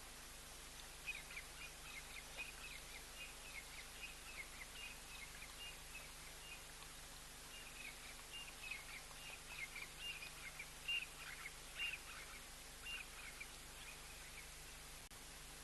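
Bird twittering: a long run of quick, high chirps that starts about a second in and stops a little before the end, over a faint steady hiss.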